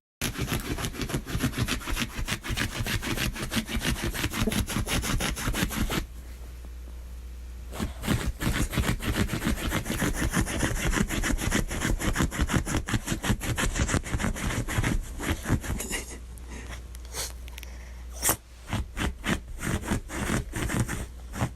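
Rapid rasping scraping strokes, like snow and ice being scraped off a car, running in quick repeated strokes with a pause of about two seconds a third of the way in and sparser, broken strokes near the end.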